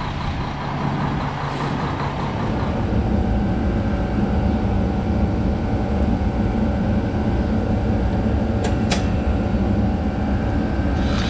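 Semi truck's diesel engine running steadily while warming up after a cold start without the block heater, growing slightly louder in the first few seconds and then holding. Two brief clicks sound about nine seconds in.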